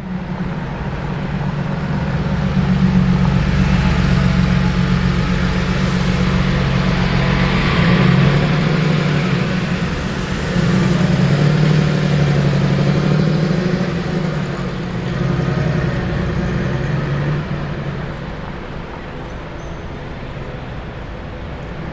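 A motor vehicle engine running close by in street traffic, a steady low drone that swells and eases a few times and drops back somewhat near the end.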